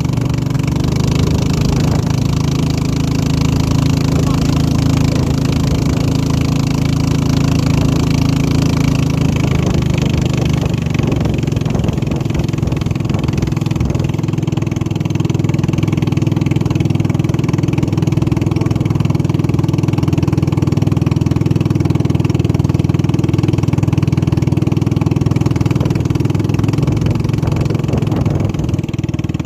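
Motor racing boat's engine running loud and steady at a constant pitch, with a slight change in tone about ten seconds in.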